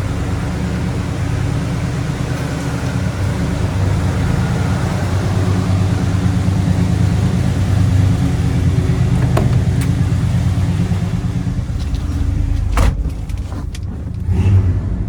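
Chevrolet 402 big-block V8 engine running steadily at idle, a deep even hum. Near the end there is a single sharp click.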